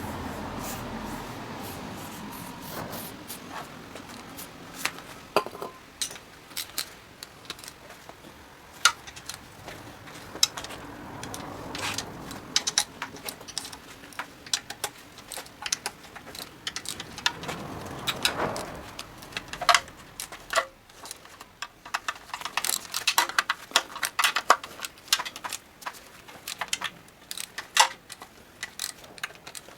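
Irregular metallic clicks and clinks of hand tools working on a Toyota 4A-GE engine, as its oil pan is being unbolted. The clicks come thicker and faster in the second half.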